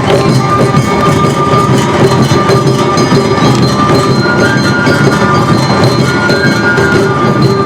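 Awa odori festival music played live by the narimono band: taiko drums keep a steady rhythm under the clanging kane hand gong and a held, pitched flute-like melody.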